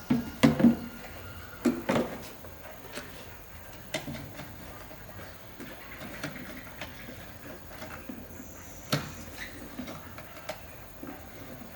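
Irregular sharp knocks and clicks, as of objects being handled and set down. Several come close together in the first two seconds, one comes about four seconds in and another about nine seconds in, with lighter ticks between.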